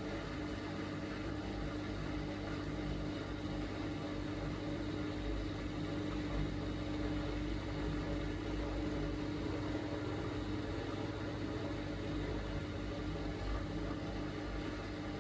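Miele Navitronic W3985 washing machine's drum motor running with a steady hum during the load-distribution stage after the main-wash drain, turning the drum to spread the laundry evenly before spinning.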